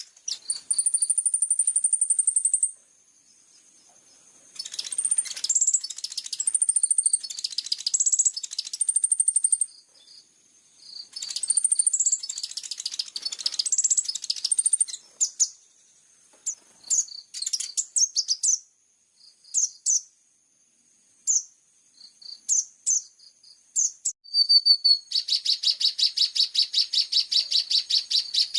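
Kolibri ninja (konin) sunbird song: very high, thin chirps and twittering phrases come in bursts with short pauses between them. Near the end comes a long, fast, even trill. These are 'isian' fill-in phrases used as masteran training song for caged konin.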